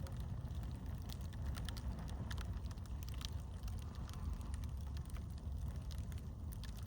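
Campfire crackling, with irregular sharp pops over a steady low rumble of wind on the microphone.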